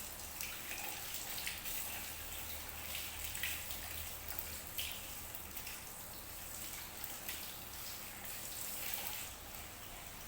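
Steady patter of water with scattered light drips and taps, over a low steady hum.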